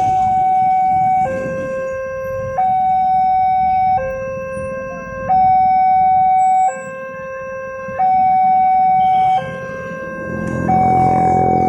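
Railway level-crossing warning alarm sounding its electronic two-tone signal, a high tone and a lower tone alternating about every 1.3 seconds, the warning that a train is approaching. A low rumble swells under it near the end.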